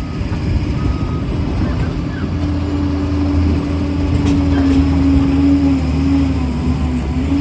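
Liebherr 746 crawler dozer's diesel engine running steadily with a low hum, joined about two seconds in by a steady higher whine.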